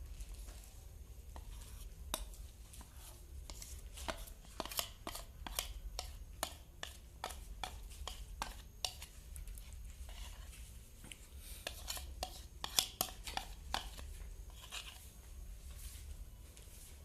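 A kitchen utensil clicking and scraping against a dish as cake batter is transferred into the cake tin: many irregular light clicks, busiest about four seconds in and again after about eleven seconds.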